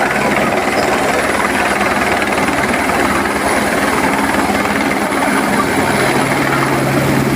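Helicopter landing at close range: steady, loud rotor and engine noise, with a low hum that grows stronger near the end.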